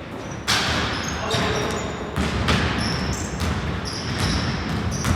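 Basketball being dribbled in an indoor sports hall, about one bounce a second, with short high squeaks between the bounces.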